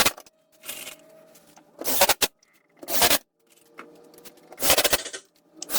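Power driver sinking 2-inch screws through wooden French cleats into the wall studs, in several short bursts about a second apart.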